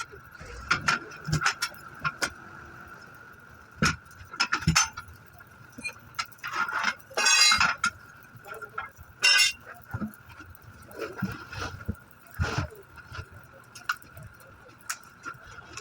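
Metal tools clinking and knocking against a wheel rim as a tubeless tyre is worked off it, with a rapid rattling burst about seven seconds in. A steady high tone runs underneath.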